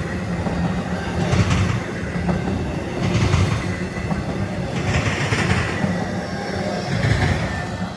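Freight train cars rolling past, wheels clacking over the rail joints in a loud pulse about every two seconds over a steady rumble.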